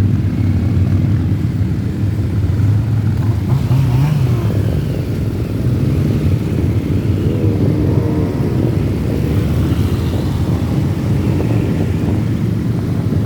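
Engines of a large group of motorcycles riding together: a loud, steady low drone, with the pitch rising and falling in places as engines rev.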